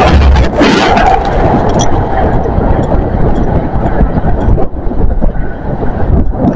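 High Speed Train (InterCity 125) passing close below: a loud, steady rumble that eases a little after about four and a half seconds.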